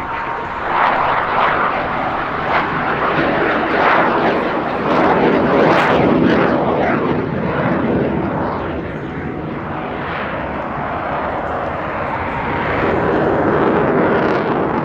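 Alenia Aermacchi M-346 Master jet trainer flying a display, its twin turbofan engines making a loud, steady jet noise that swells and fades several times as the aircraft manoeuvres.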